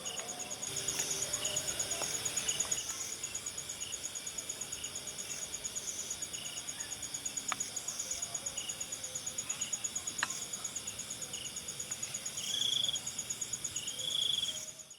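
Insects chirping: a steady, fast-pulsing high trill, with shorter chirps repeating below it and two louder buzzing calls near the end.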